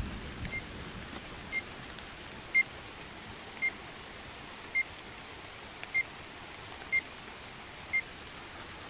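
Short electronic beeps from a Trimble R10 GNSS surveying setup, about one a second, eight in all, over a steady hiss. The beeping signals that the receiver holds an RTK FIX.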